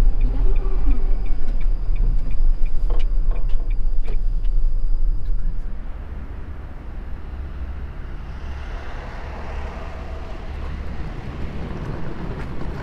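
Road and engine noise inside a moving Mitsubishi Delica Mini's cabin: a steady low rumble that drops about six seconds in, leaving a quieter hiss.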